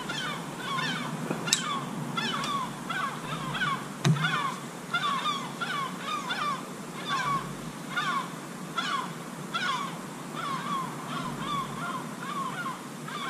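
Birds calling over and over: short, harsh, falling calls about two a second. Two sharp clicks, about one and a half and four seconds in.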